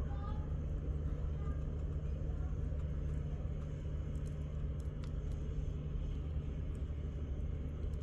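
Campsite ambience dominated by a steady low rumble, with a few faint, scattered crackles of burning firewood.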